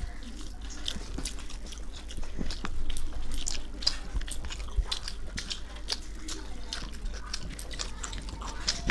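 People chewing mouthfuls of chicken biryani, with many quick wet mouth clicks and lip smacks, a little louder about three seconds in.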